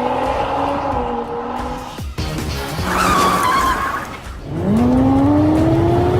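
Car engine revving with squealing tyres, over music: a falling high squeal about three seconds in, then a long rising rev.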